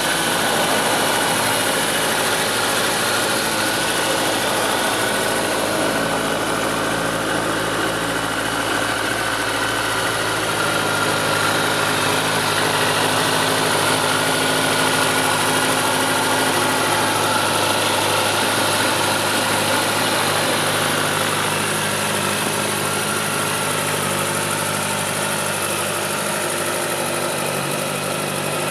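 Kawasaki ZZR1400's 1441 cc inline-four engine idling steadily.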